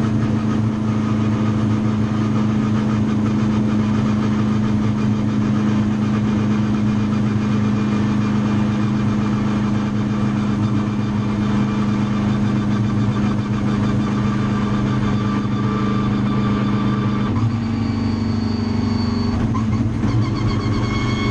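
A vehicle engine running at a steady speed, a continuous drone that shifts slightly in pitch about seventeen seconds in.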